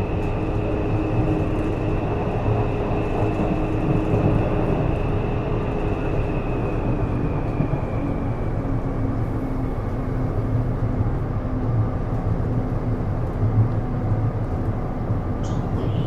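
Interior running sound of a Taipei Metro C301 train with Bombardier IGBT-VVVF traction equipment: a steady rumble of wheels on rail under a high electric whine from the inverter and motors. About halfway through, the whine slides slowly down in pitch and then holds steady.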